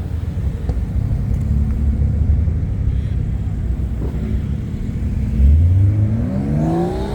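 Car engine running with a low rumble, then revving up sharply about five seconds in, its pitch rising quickly.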